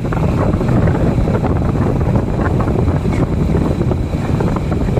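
Wind buffeting the microphone on a moving motorcycle, a loud, steady rushing rumble with the bike's engine and road noise underneath.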